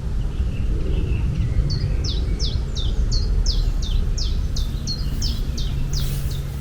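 A bird repeating a quick series of short, falling, chirped notes, about three a second, starting a couple of seconds in, over a steady low rumble.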